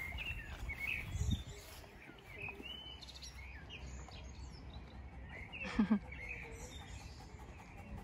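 Small birds chirping and twittering on and off over a steady outdoor background rumble. A low thump comes a little over a second in, and a short, louder low sound just before six seconds in.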